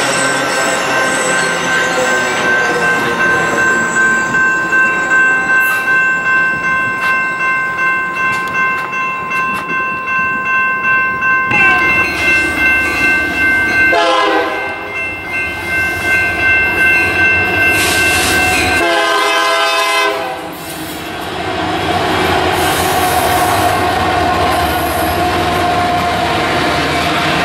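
Passenger train cars rolling past with a steady high-pitched wheel squeal and a regular clickety-clack of wheels over rail joints. Later a Union Pacific freight passes behind diesel locomotives, a train horn sounds briefly, and the locomotives run by with a steady rumble.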